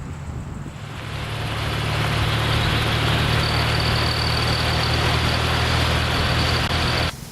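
Motorcycle engine running steadily under a rush of wind and road noise that grows louder over the first two seconds as speed builds. A faint high whine runs through the middle, and the whole sound cuts off suddenly near the end.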